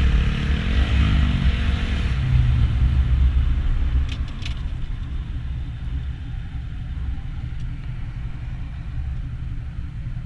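Honda Grom's small single-cylinder engine running under way, with a low rumble. About four seconds in it drops back and settles lower and steadier.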